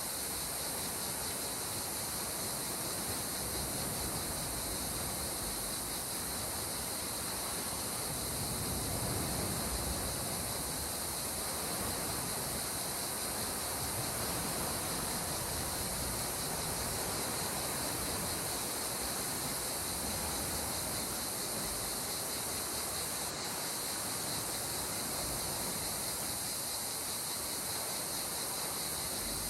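Calm sea water washing gently and steadily, with slow soft swells, under a constant high-pitched insect chorus.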